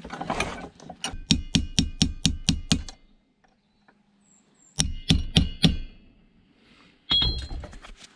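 Rapid runs of metal-on-metal tapping on the part being freed during a scrap teardown, about four or five sharp knocks a second with a short metallic ring. There are three bursts: a long one in the first few seconds, a shorter one in the middle and another near the end.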